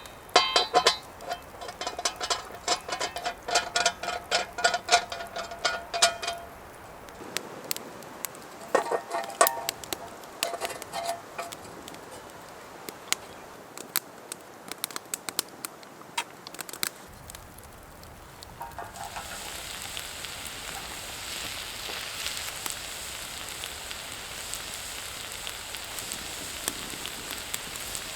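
Dense crackling and sizzling for the first six seconds or so, a shorter burst again a few seconds later, then only scattered crackles. About two-thirds of the way in, a steady hiss of rain sets in and runs on.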